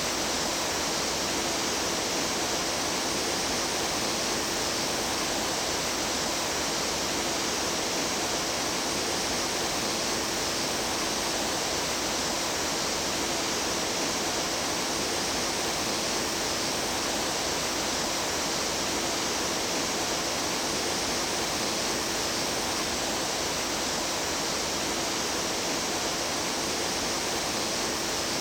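Steady rush of running water in a mountain stream, an even, unbroken sound of water flowing over rocks.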